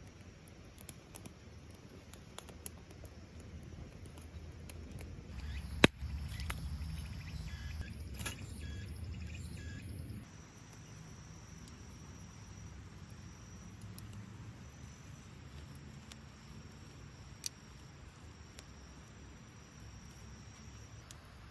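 Campfire ambience with scattered sharp snaps from the burning wood, one very loud snap about six seconds in and another later. A thin, steady high insect-like trill runs through the second half.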